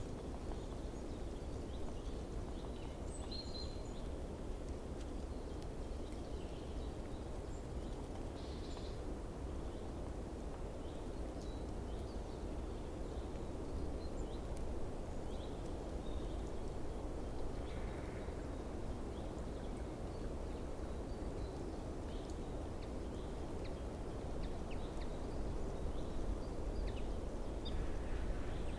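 Steady low outdoor background noise with faint, scattered short chirps of small birds calling in the distance throughout.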